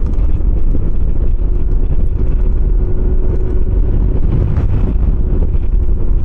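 125cc Kymco motor scooter running at road speed, with wind buffeting the microphone in a steady low rumble.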